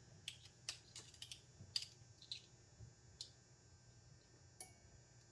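Faint, scattered clicks and taps of kitchen utensils, about seven in all at irregular intervals, as crushed garlic is put into a jug.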